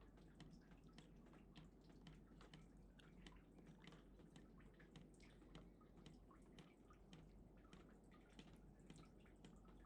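Near silence with faint, irregular crackling clicks, several a second, over a low steady hum.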